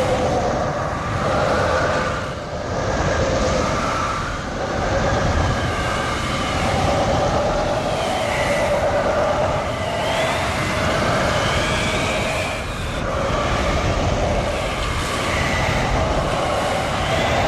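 Strong storm wind roaring steadily, with wavering howling tones that rise and fall over a deep rumble, swelling and easing every few seconds.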